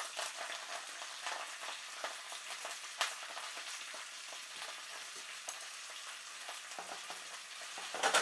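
Nanohana (rapeseed greens) sizzling and crackling in hot garlic oil in a frying pan as handfuls are dropped in. A louder burst of sizzle about eight seconds in as the greens are stirred with chopsticks.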